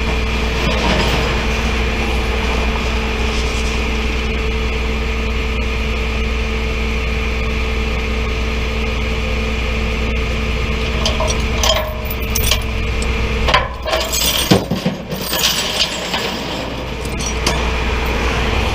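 A tow truck's engine running steadily with a constant hum. From about two-thirds of the way in, a spell of sharp metallic clinks and knocks sounds over it for a few seconds.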